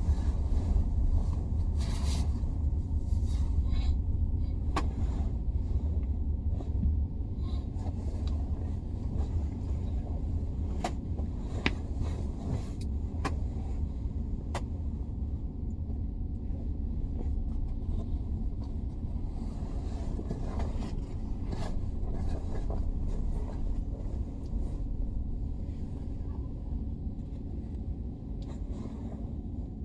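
Cabin noise inside a CR400AF-AE Fuxing sleeper high-speed train as it runs: a steady low rumble that grows gradually quieter, with scattered light clicks and ticks.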